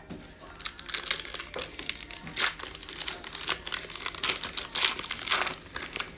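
A plastic trading-card pack wrapper crinkling as it is torn open and handled: a dense run of irregular crackles.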